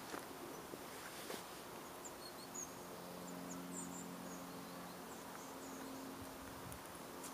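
Small birds chirping faintly with short, high calls, clustered about two to four seconds in, over a steady outdoor hiss of wind and a low hum. A couple of footsteps sound near the start.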